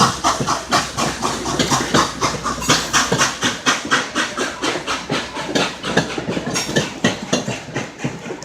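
Passing steam train, its car wheels clacking over the rail joints in a quick, uneven run of sharp clicks over a light hiss.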